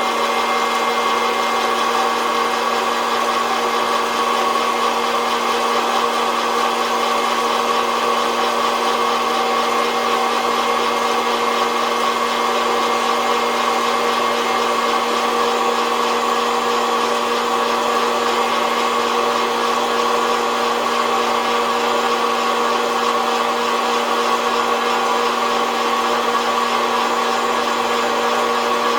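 SOUYI SY-121N hot-air coffee roaster running steadily, its fan motor humming and air rushing through the beans. The beans are in the early, drying stage of the roast, with no cracking heard yet.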